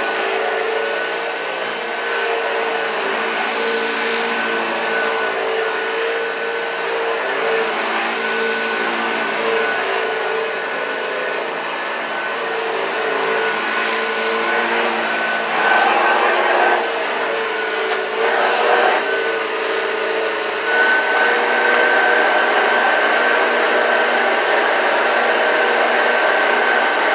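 A 1986 Hoover Junior U1206 upright vacuum cleaner running as it cleans carpet: a steady motor whine with a slightly wavering pitch, growing a little louder about two-thirds of the way through.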